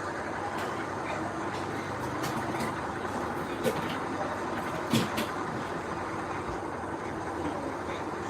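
Heavy diesel earthmoving machinery running steadily, with a sharp clank about three and a half seconds in and a louder one about five seconds in.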